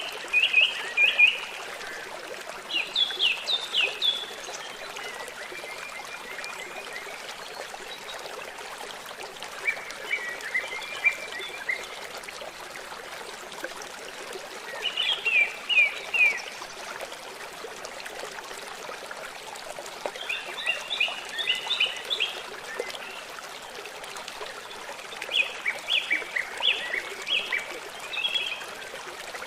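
A river running steadily, with a songbird repeating short phrases of quick, downward-sweeping chirps about every five seconds.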